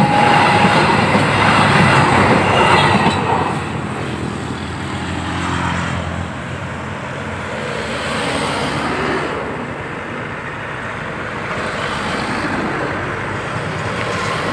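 Passenger train carriages passing close by, the wheels rumbling on the rails, loudest for the first three to four seconds and then dying away into steady road traffic noise.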